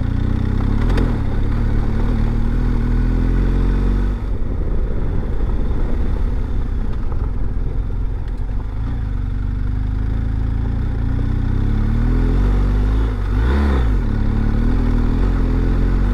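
BMW R 1250 GS Adventure's boxer-twin engine pulling the motorcycle up a steep gravel road. The engine note rises over the first few seconds, dips briefly about four seconds in, then runs steadily, with a short swoop in pitch near the end.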